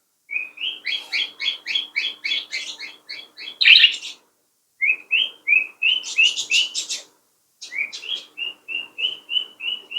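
Lovebirds chirping: short, sharp calls repeated about three times a second in three runs, broken by two brief silences, over a faint steady hum.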